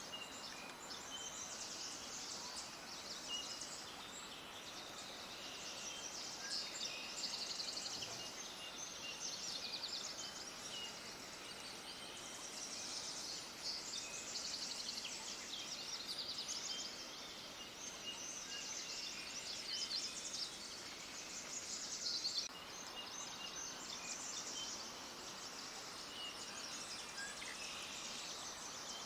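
Many small songbirds chirping and trilling at once in a dense, continuous chorus of quick high-pitched song phrases overlapping one another.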